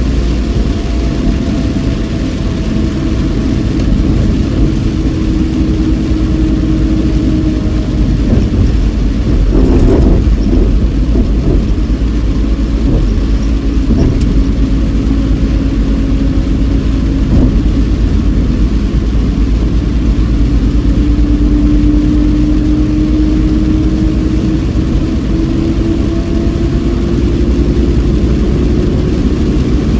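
Car engine and road noise heard from inside the cabin while driving, the engine note falling and then rising again as the speed changes, with a short burst of noise about ten seconds in.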